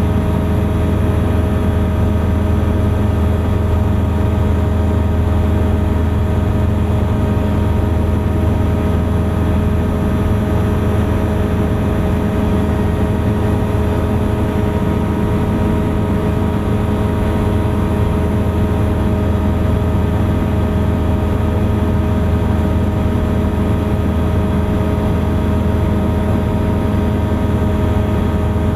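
Thruster light aircraft's engine and propeller running steadily in flight, a constant loud drone with an even pitch.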